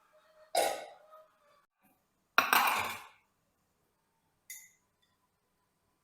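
Kitchen utensils or dishes knocking and clinking in three separate clatters. The loudest comes about two and a half seconds in, and a light, high clink follows a couple of seconds later.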